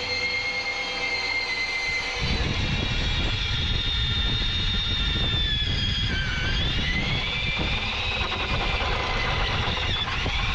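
Angle grinder whining at high speed, then biting into steel about two seconds in with a heavy rumbling grind. Its pitch sags under load around the middle and recovers.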